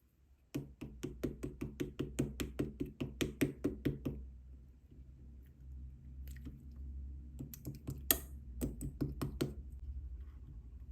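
Slime being pressed and kneaded, giving quick sharp clicks and pops of trapped air, about five a second for a few seconds, then a quieter stretch and a second run of clicks near the end.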